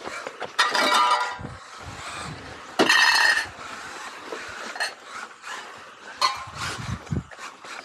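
Tamiya XV-01 electric RC rally car running a stage: its motor and drivetrain whine in short loud bursts as it accelerates, the strongest about half a second in and again near three seconds in, with scattered clicks in between.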